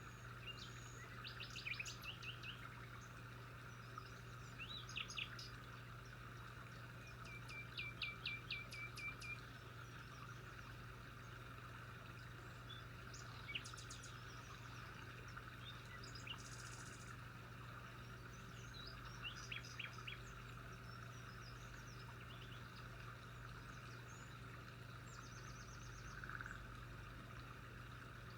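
Birds chirping now and then in short, quick runs of high notes, one run of about eight rapid notes some eight seconds in, over a steady low hum and faint background hiss.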